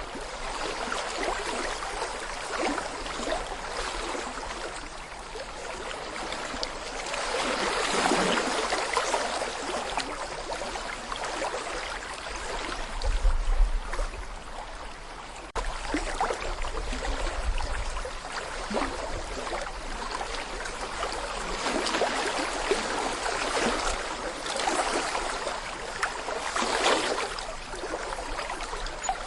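Small brook flowing over stones, a continuous babbling, gurgling rush of water that swells and eases every few seconds. A brief low rumble comes about halfway through.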